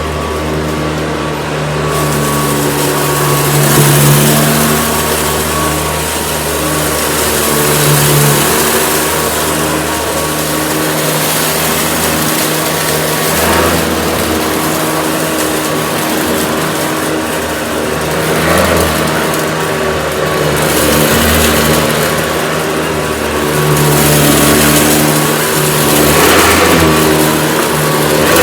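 Hoover Decade 80 upright vacuum cleaner running steadily with a constant motor hum, its rushing sound growing louder and softer every few seconds.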